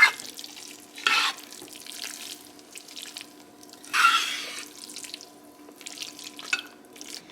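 Water from a kitchen tap splashing into a sink in several short bursts, the longest and loudest about four seconds in, over a faint steady hum.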